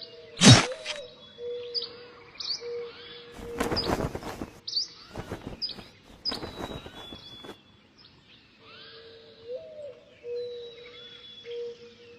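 Several birds chirping and whistling in short, high calls, over a steady on-and-off low tone. A few loud, harsh noisy bursts break in, the loudest about half a second in and a longer one around four seconds in.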